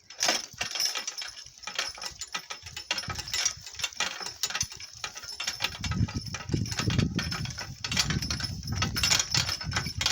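Donkey-drawn cart rattling and clattering at a walk over rough, bumpy ground, a rapid irregular run of knocks and jangles. A low rumble joins about six seconds in.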